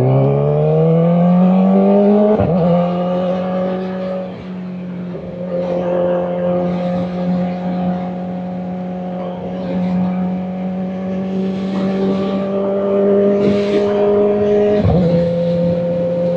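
Kawasaki Ninja ZX-4RR's inline-four engine accelerating, its revs rising for about two seconds until a gear change, then running at a steady pitch at cruising speed, with a short break in the sound near the end.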